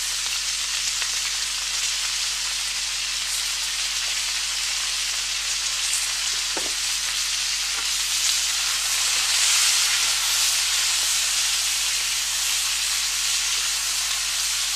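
Peanuts, mushrooms and green peas sizzling in hot oil in a pan as they stir-fry, with a few light knocks of stirring. The sizzle swells a little past the middle.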